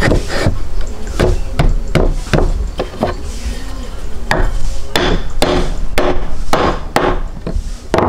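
A series of sharp knocks or impacts, irregular, roughly two a second, with a short pause partway through.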